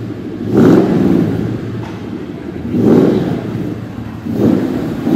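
Puritalia 427's supercharged 5.0-litre V8 revved while standing, three quick blips that rise and fall in pitch, a couple of seconds apart, settling back between them, with another rev starting at the very end.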